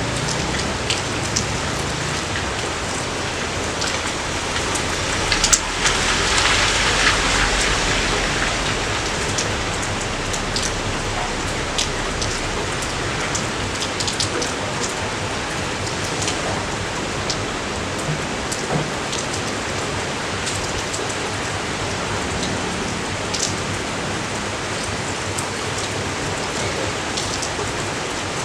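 Steady rain falling, with scattered sharp drop ticks close by. The rain swells louder for a few seconds about five and a half seconds in, then settles back.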